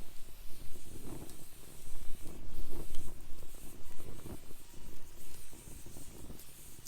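Campfire burning in a fire pit, crackling and hissing with irregular sharp pops, a little busier for a second or so partway through.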